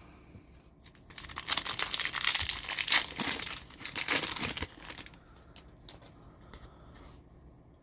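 Foil trading-card pack wrapper being torn open and crinkled: a dense crackly rustle starting about a second in and lasting about four seconds, then dying down to faint handling.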